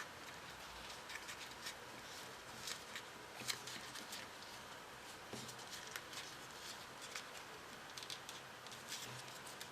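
Paper being handled: soft rustling with irregular light clicks and crinkles as folded modular origami paper pieces are worked by hand.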